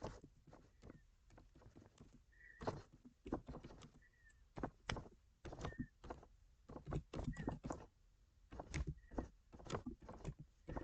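Faint, irregular taps and clicks of typing, a few a second, with short high chirp-like tones about once a second.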